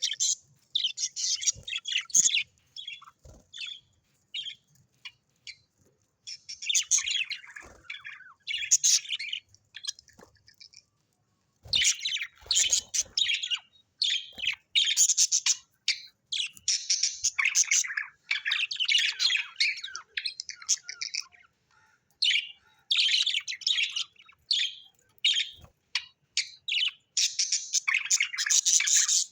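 Parrots chirping and chattering in quick, high-pitched runs with occasional squawks, coming in bursts separated by short pauses, with one longer quiet gap just before the middle.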